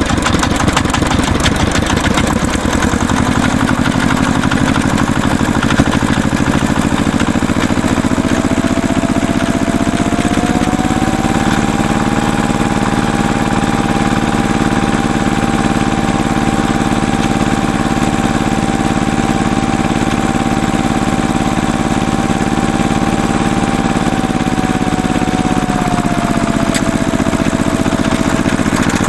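Tractor engine running steadily. About eight seconds in, its speed rises over a few seconds and holds higher, then drops back to the lower speed near the end.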